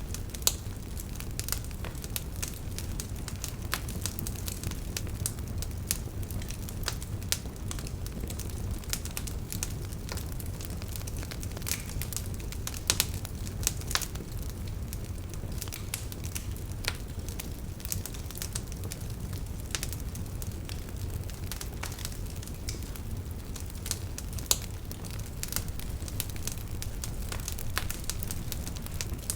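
Campfire crackling and popping: many small irregular snaps with a few louder pops, over a steady low rush of flowing river water.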